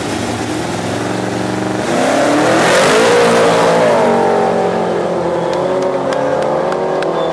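A car engine accelerating hard: its pitch climbs from about two seconds in, with a rush of noise, and the sound is loudest around three seconds before settling to a steadier run.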